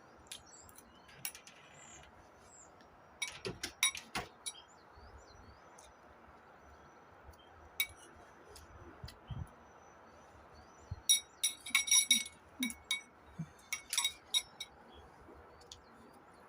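Cutlery and glass clinking against dishes during a meal: scattered sharp clinks, a cluster about three to four seconds in and a busier run from about eleven to fifteen seconds in, a few of them ringing briefly. Faint bird chirps in the background.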